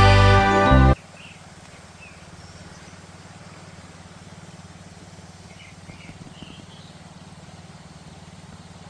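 Background music that cuts off about a second in, followed by quiet outdoor ambience with a steady low hum and a few faint bird chirps.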